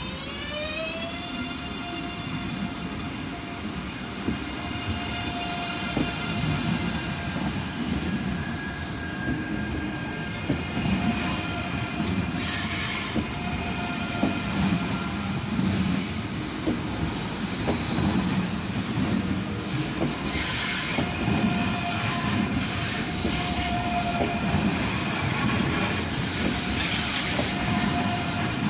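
ICE 3 high-speed electric multiple unit moving slowly past along the platform: an electric whine of several tones from its traction equipment glides up in pitch in the first second or so and then holds steady over the rumble of the wheels. A few short hissing bursts come in partway through and again near the end.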